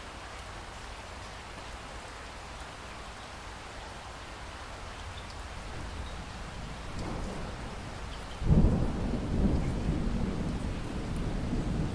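Steady rain falling, joined about two-thirds of the way in by a sudden loud low rumble of thunder that keeps rolling in swells.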